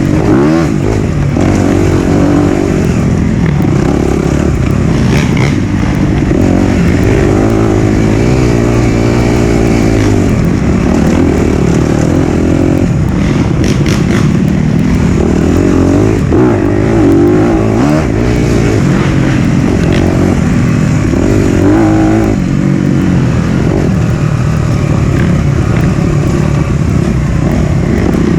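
Four-stroke dirt bike engine under way, revving up and falling back again and again as the rider works the throttle and gears.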